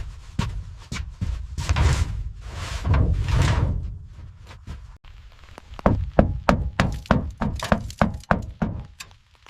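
A few seconds of rough scraping, rustling noise with a low rumble, then a quick run of knocks and thuds, about three or four a second.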